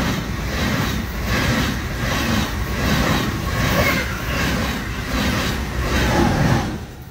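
Deutsche Bahn ICE high-speed train passing at speed a few metres away: a loud rush of wheel and air noise with a rhythmic beat about twice a second as the wheel sets go over the rails. It falls away near the end as the last car passes.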